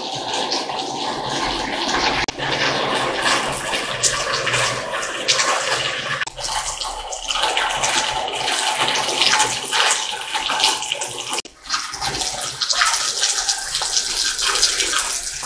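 Heavy rain pouring down, a steady rush of falling water and splashing, with a few abrupt changes in the sound.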